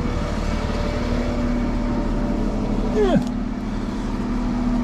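An engine running steadily at idle, with one short falling squeal about three seconds in.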